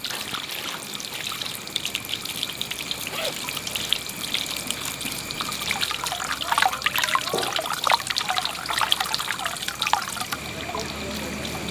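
Water trickling and splashing, with many small irregular splashes that grow busier about halfway through.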